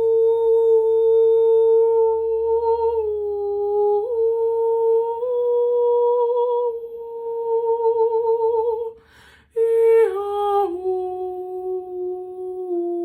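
A woman's voice humming long held notes with a slight waver, stepping down in pitch a few times; a quick breath in about nine seconds in, then the hum resumes on a lower note.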